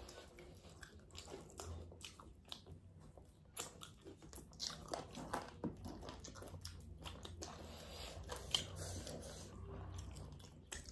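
Two people eating by mouth: biting and chewing food, with short irregular crunches and clicks throughout.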